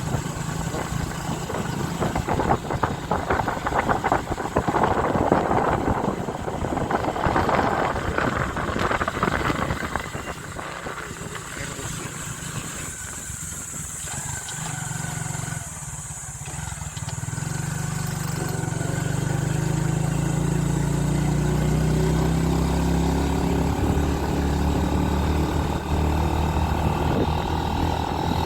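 Motorcycle on the move, with rough wind buffeting on the microphone at first. About two-thirds of the way through, the engine note rises and grows louder as it accelerates.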